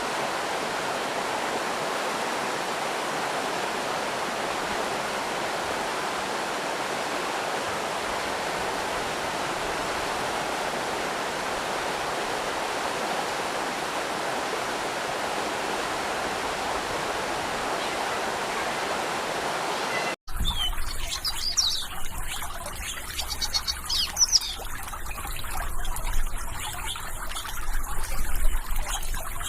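Steady rush of flowing stream water. About twenty seconds in it cuts off abruptly and gives way to birds chirping over a low rumble.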